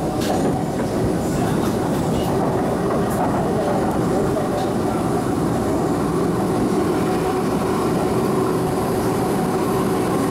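MTR East Rail line mid-life-refurbished Metro-Cammell electric train running between stations, heard from inside the car: a steady rumble of wheels on track with a steady motor hum.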